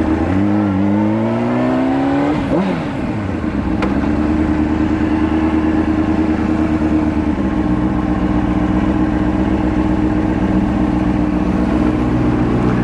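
Honda CBR600RR motorcycle's inline-four engine accelerating, its pitch rising for about two and a half seconds, then dropping briefly before settling into a steady pitch as the bike cruises.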